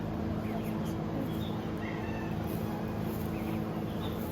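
Newborn goat kid giving a few short, high, thin bleats, over a steady low hum.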